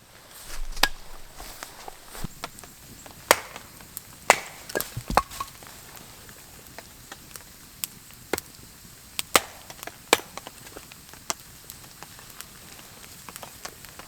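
Wood being chopped with sharp, irregular blows, a dozen or so, the loudest in the first half.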